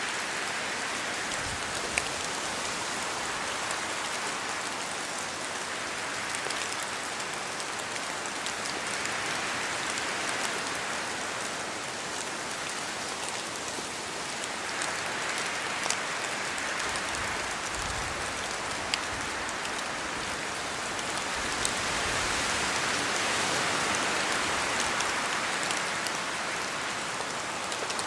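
Steady rain in a forest with wind, drops falling from the trees onto leaves and the ground. The hiss swells and eases every several seconds and grows somewhat louder near the end, with a few sharp single drips standing out.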